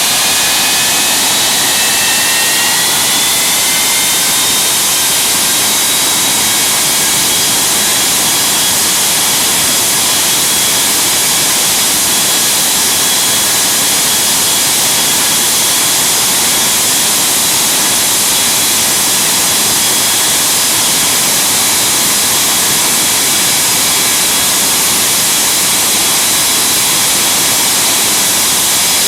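Ilyushin Il-86 turbofan jet engines on the ground: a loud, steady rushing noise with high whine tones that rise over the first few seconds and then hold steady as the engine speed settles.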